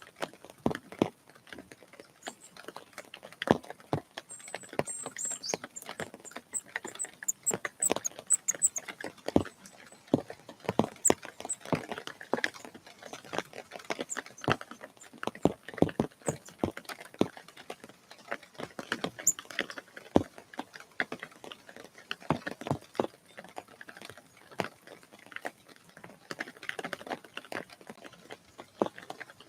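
Irregular tapping and knocking at a bird feeder, several sharp taps a second with uneven spacing. A few brief, very high bird calls come through between about four and nine seconds in.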